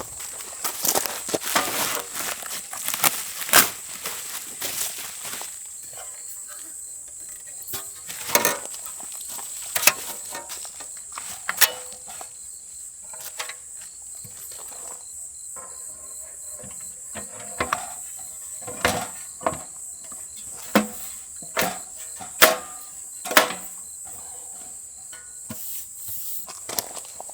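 A steady, high insect chirring, autumn crickets or similar, under many scattered sharp clicks and knocks.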